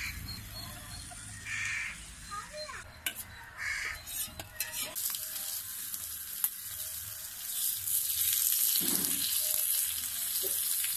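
Banana-leaf-wrapped fish sizzling on a hot iron pan over a wood fire, with a few sharp clicks of a metal spatula and utensils in the first half. The sizzle grows louder from about halfway through.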